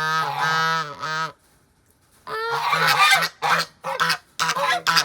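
Domestic geese honking: one long drawn-out honk, a pause of about a second, then a string of shorter honks.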